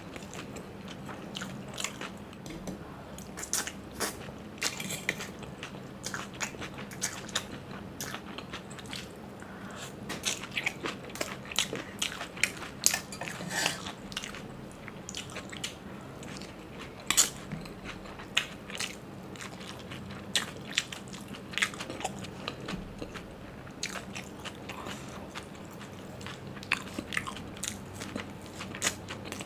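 Close-miked eating sounds: a person chewing and biting soft fried street food, with irregular crunchy bites and wet mouth clicks and smacks.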